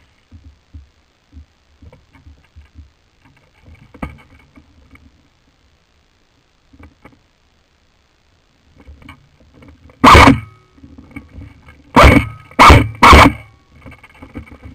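Faint rustling and small knocks of close-up handling and movement. Then four loud scraping bursts: one alone, and three in quick succession near the end.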